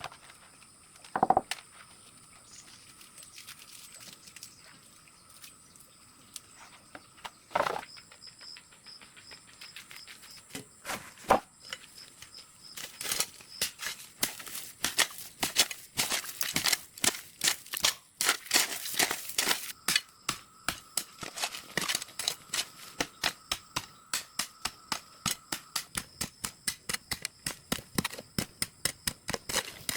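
Sharp knocks and taps: a few isolated ones at first, then from about halfway a quick, steady run of taps, several a second.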